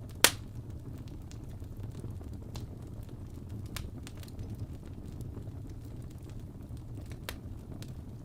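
Wood fire crackling in a fireplace: a steady low rumble of flames with a sharp loud pop just after the start and a few fainter pops scattered later.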